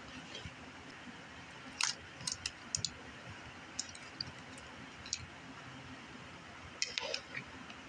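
A person chewing raw vegetables with dressing close to the microphone: scattered crisp crunches and wet mouth clicks, bunched together about two to three seconds in and again near the end.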